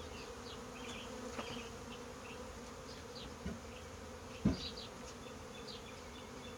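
Honeybees buzzing in a steady hum around an open hive, with a few light knocks, the loudest about four and a half seconds in.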